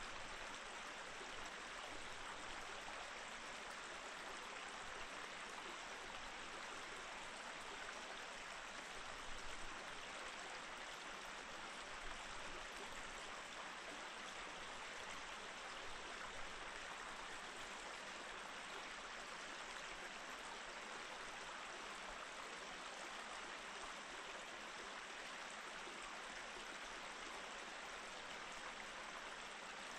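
Mountain stream flowing steadily over rocks, an even rushing with small splashes and gurgles.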